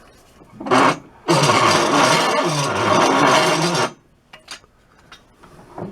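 Rough scraping as walnut is worked down by hand with a tool. There is a short stroke just under a second in, then one long scrape lasting about two and a half seconds, followed by a few small knocks.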